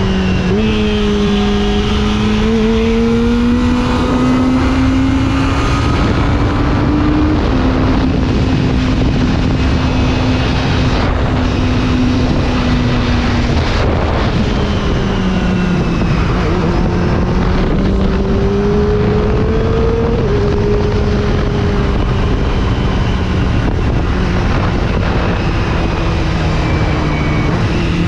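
Kawasaki Ninja ZX-25R's 249 cc inline-four with an Akrapovič exhaust running under way, its note climbing and easing gently with a couple of small dips. Heavy wind rush on the microphone sits under it.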